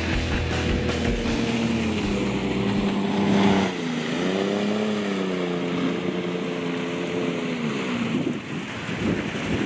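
Jet boat engine running on the river, its pitch dipping and then rising again about four seconds in, with wind buffeting the microphone.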